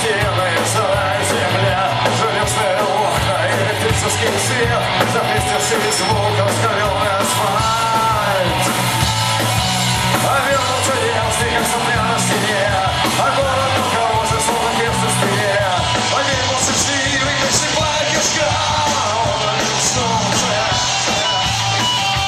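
Punk rock band playing live, with shouted vocals over a loud, dense full-band sound.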